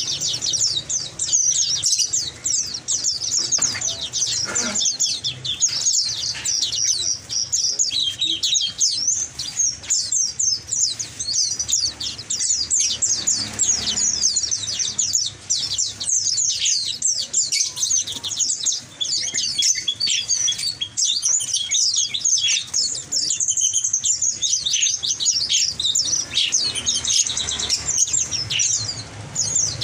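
Many small caged songbirds chirping and twittering at once, a dense, continuous chorus of short high-pitched chirps.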